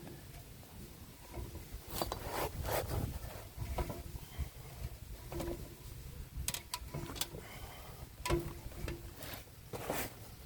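Irregular light clicks and knocks of hand work, clustered in several short runs, over a low background hum.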